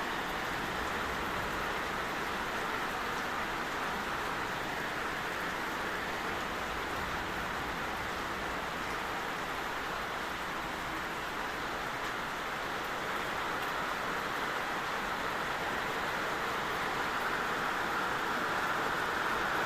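Heavy downpour: rain pouring steadily as a dense, even hiss, growing a little louder near the end.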